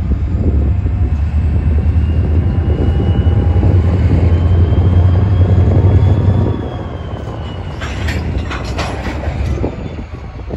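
Diesel train passing: a heavy, loud low rumble that drops off sharply about six and a half seconds in, followed by a short run of sharp clanks.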